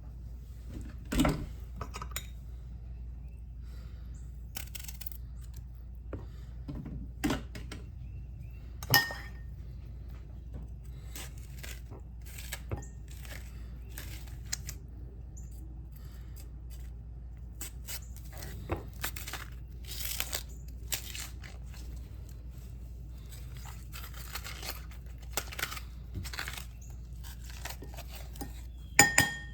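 Kitchen preparation sounds: scattered clicks, clinks and knocks of utensils and dishes being handled, with stretches of rustling, over a steady low hum.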